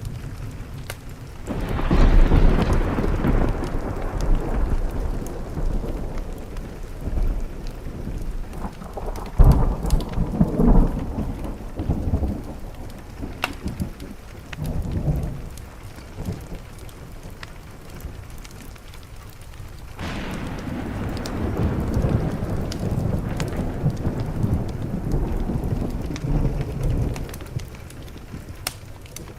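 Thunder over steady rain on a window. A long peal rolls in about a second and a half in, a sharper crack comes near ten seconds, and another long rumble starts about twenty seconds in. The scattered pops of a crackling wood fire run underneath.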